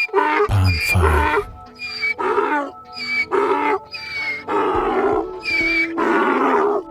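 Big cat growling in a run of short, loud calls, about one a second, with a deep rumble near the start, over steady background music.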